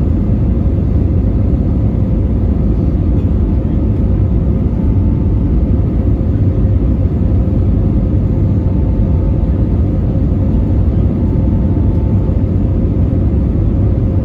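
Steady low rumble of an Airbus A320neo's cabin in flight, engine and airflow noise heard from a window seat, with a faint steady hum above it.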